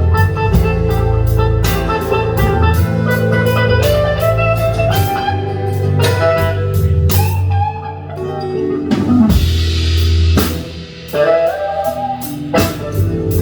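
Live blues-rock band playing without vocals: guitar lines over bass, keyboard and a drum kit keeping a steady beat, with a short drop in intensity and a downward slide partway through before the full band comes back in.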